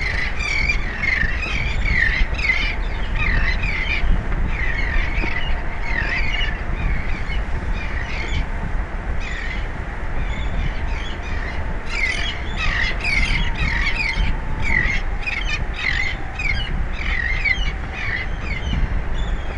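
Birds squawking in a rapid run of short calls, thinning out for a few seconds partway through and then growing dense again, over a steady low rush of outdoor noise.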